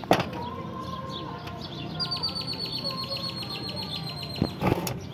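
A bird's high, rapid trill of about ten notes a second, slightly falling in pitch and lasting some two and a half seconds from about two seconds in, over steady market background noise. Sharp knocks sound right at the start and again near the end.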